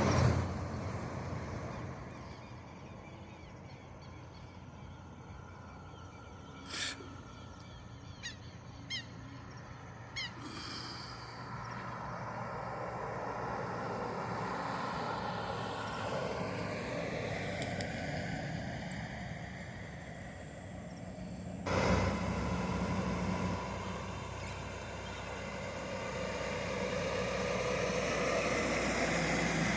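A distant engine passing, probably an aircraft, its pitch gliding slowly as it goes by. A few short chirps come before it, and the sound changes abruptly about two-thirds of the way in.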